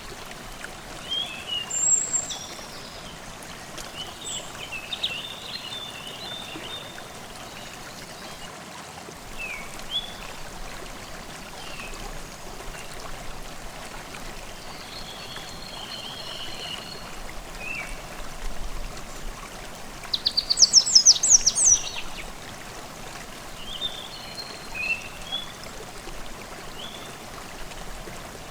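Forest stream babbling steadily, with birds singing and chirping over it throughout; a loud, rapid run of bird notes comes about two-thirds of the way through.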